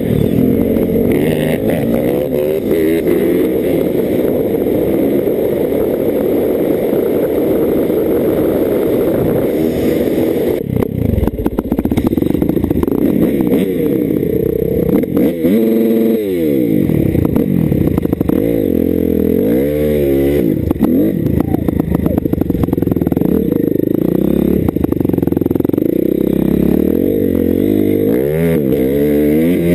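Dirt bike engine running under way, its pitch climbing and dropping again and again as the throttle opens and closes, with quick rev-ups and drops around the middle and near the end.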